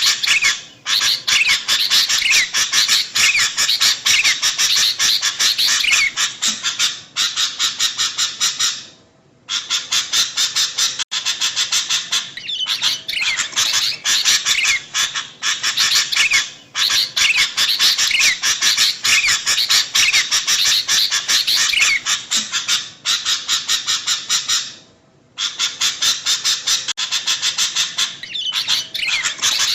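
Sooty-headed bulbul (kutilang) lure recording: a dense, rapid, harsh chattering of calls, broken by short pauses about 9 and 25 seconds in, the same stretch of calls repeating as a loop.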